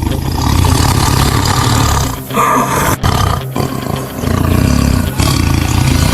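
Tiger roaring: a loud, rough, drawn-out roar with short breaks about two and three and a half seconds in.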